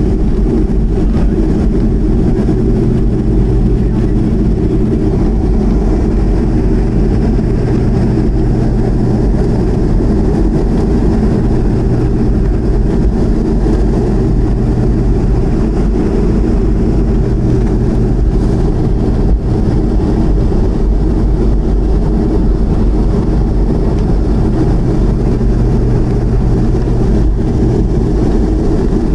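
Boeing 737-200's Pratt & Whitney JT8D turbofan engines giving a steady, loud, low drone with a few unchanging hum tones in it.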